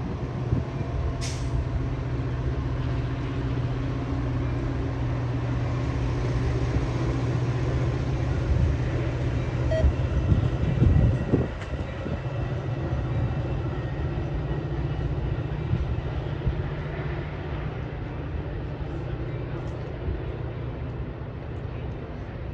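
Metra bilevel commuter train rolling past, with the steady low drone of its diesel locomotive under the rumble of the coaches' wheels on the rails. A few clanks come about ten seconds in.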